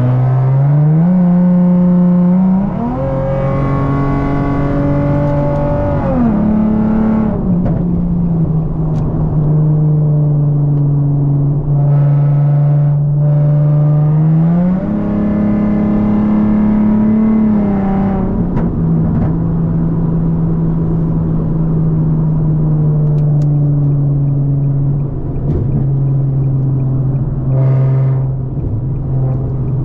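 Nissan 370Z's 3.7-litre V6 through a straight-piped exhaust, loud while driving. The engine note climbs in a couple of steps near the start, holds, and drops about seven seconds in. It climbs again around fifteen seconds and falls back about three seconds later, then drones steadily at cruise.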